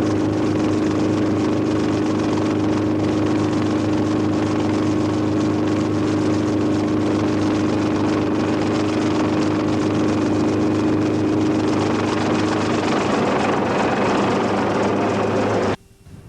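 An engine running steadily and loud, with a constant hum under a rushing noise. Near the end the hum fades and the rushing grows, then the sound cuts off abruptly.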